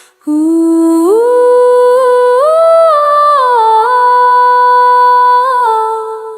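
Wordless female vocal line, hummed, in a slow melody. It steps up in pitch twice, settles on a long held note, then dips and fades near the end.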